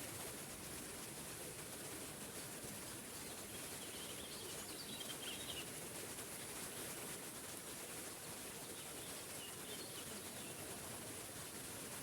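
Small forest waterfall giving a steady rush of falling water, with a few faint bird chirps about four to six seconds in and again near ten seconds.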